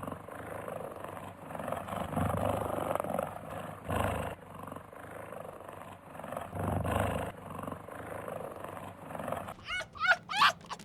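An animal calling in several rough, breathy bursts. Near the end a fast run of short, high calls begins, each falling in pitch, about three to four a second.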